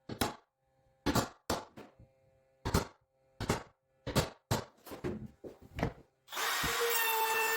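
About a dozen short rasping strokes of a hand tool on wood, irregularly spaced. Near the end a steady sound with held tones takes over.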